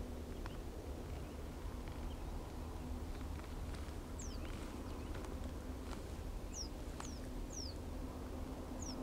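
Quiet evening marsh ambience with about five short, thin, high whistles that fall in pitch, mostly in the second half: calls of a small bird. A faint steady low hum runs underneath.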